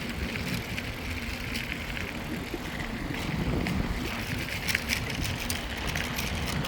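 Mountain bike rolling along a rail trail: steady tyre noise and rattle, with wind rumbling on the handheld phone's microphone.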